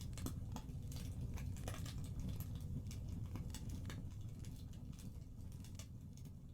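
Wood fire crackling in a fireplace: a low rumble with irregular small snaps and pops, slowly fading out.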